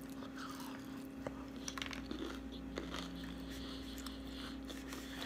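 A person biting into and chewing fried shrimp: faint crunches and wet mouth clicks scattered through, over a steady low hum.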